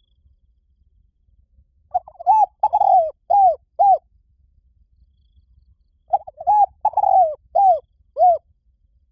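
Spotted dove singing its cooing song: two phrases, each a quick run of about five coos, the first starting about two seconds in and the second about six seconds in.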